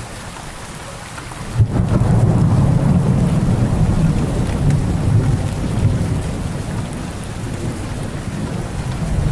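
Steady rain falling, then a loud roll of thunder breaks in about a second and a half in and rumbles on, easing off and swelling again near the end.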